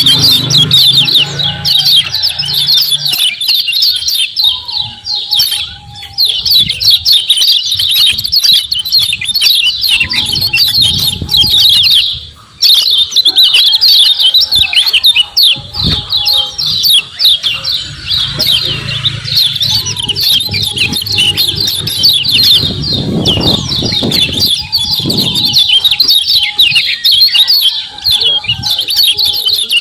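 Lemon-bellied white-eye (kecial kuning) giving its fast 'ciak ciak' calls: a dense, continuous stream of rapid high chirps that breaks off briefly about twelve seconds in.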